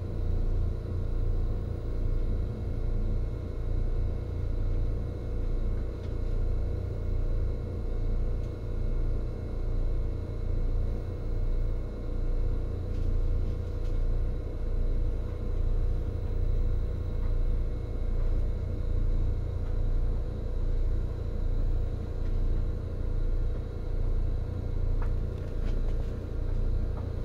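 Seibu 2000 series electric commuter train running, heard from inside the car: a steady low rumble of wheels on track that swells and fades in a regular rhythm, with a faint steady whine above it.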